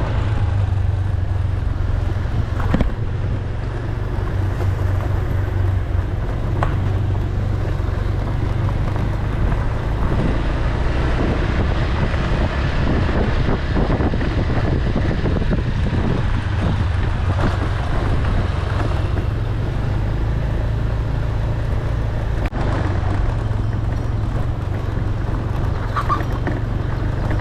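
A motor vehicle's engine running steadily while driving along a road, with a constant low hum, road and wind noise, and scattered light knocks from bumps.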